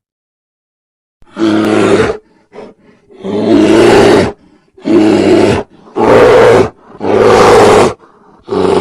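A large animal giving loud, deep calls in quick succession, about five of them, each under a second long with short gaps, starting after a second of silence.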